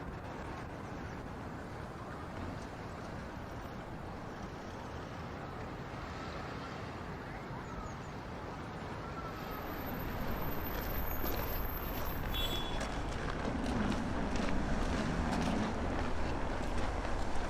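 Strong wind buffeting the microphone in a blizzard, a steady low rumble that grows louder about ten seconds in.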